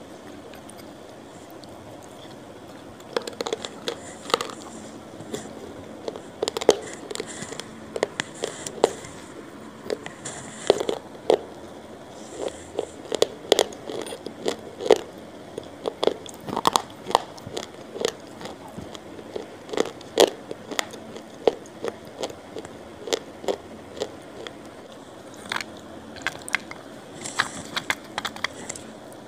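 A person biting and chewing something crunchy right into a close-held microphone: irregular sharp crunches, several a second at times, starting about three seconds in.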